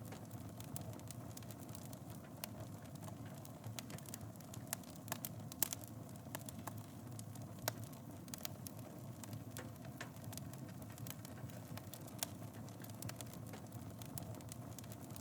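Wood fire burning in a fireplace: steady low rumble with irregular crackles and pops, a few sharper pops near the middle.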